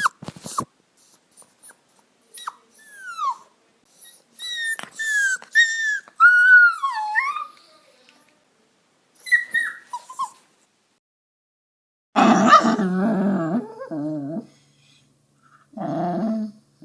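Puppies whimpering and crying: a series of thin, high whines, many falling in pitch, then from about twelve seconds in a lower, rougher run of crying.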